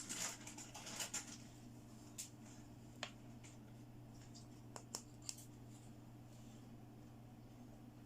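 Small plastic toy pieces being handled. There is rustling and a quick run of clicks at the start, then a few single sharp clicks and taps up to about five seconds in, over a faint, steady low hum.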